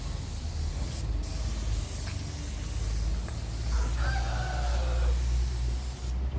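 A rooster crows once, a pitched call of about a second starting some four seconds in and dropping in pitch at its end. Under it runs a steady high hiss from spray painting that breaks off briefly about a second in and again near the end, with a low steady hum.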